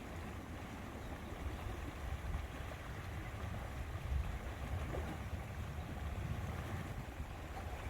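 Lakeside ambience: a steady low rumble of wind on the microphone over a soft, even wash of lake water.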